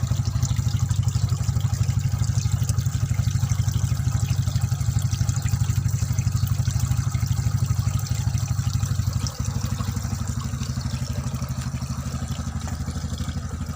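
A motor runs with a steady, low, rapidly pulsing hum, and a faint hiss of trickling water sits above it.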